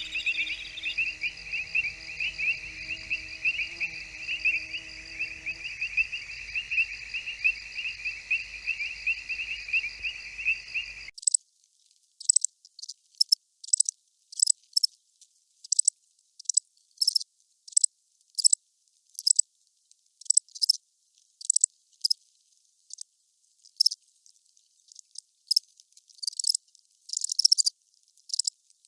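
Crickets chirping: a dense, evenly pulsing chorus that cuts off suddenly about a third of the way in. Sparse, higher-pitched chirps follow, roughly one or two a second with silence between them.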